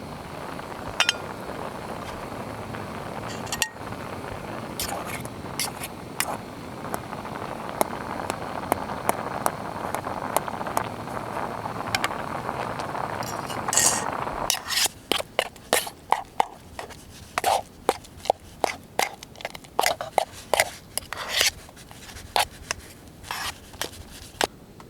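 A steady hiss for about fifteen seconds that cuts off suddenly. A quick run of sharp metallic clinks of camp cookware and utensils follows.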